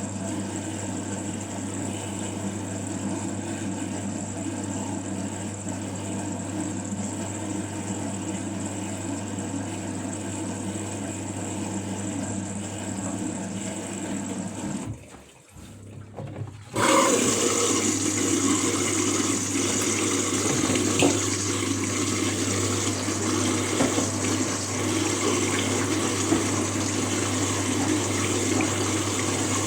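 Washing machine humming steadily, going briefly quiet about halfway through, then water starts rushing through the machine with a louder, even splashing noise.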